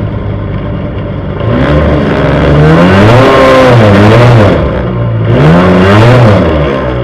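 Drag racing car's engine heard from onboard, revved up and back down twice: a longer rev building over about two seconds, then a shorter blip near the end.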